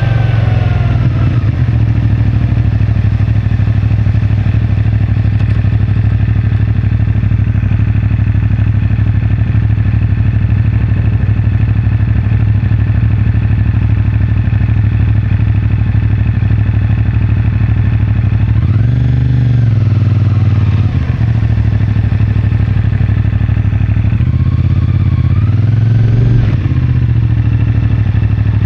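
CFMoto 450MT motorcycle's parallel-twin engine running steadily through its stock exhaust. The pitch falls in the first second or so. Revs rise and fall briefly twice, about two-thirds of the way in and again near the end.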